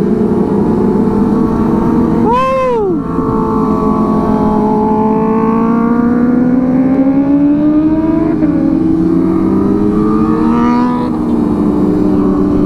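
Kawasaki ZX25R 250 cc inline-four sport-bike engines running in a group ride. Several engine notes overlap and slowly rise and fall in pitch, with one quick rev blip about two and a half seconds in.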